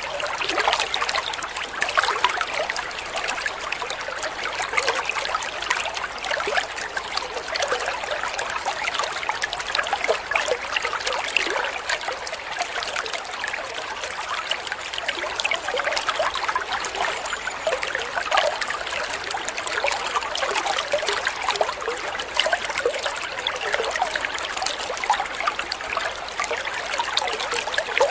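Water trickling and splashing steadily over stones, a babbling stream, with many small splashes and no pauses.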